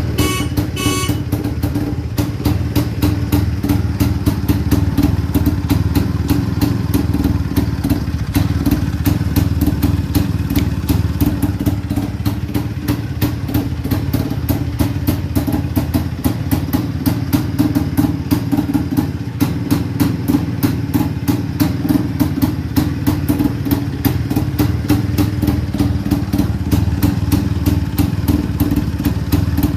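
Freshly restored 1957 IZh-49 motorcycle's single-cylinder two-stroke engine running steadily at idle, with an even, rapid firing beat and no revving.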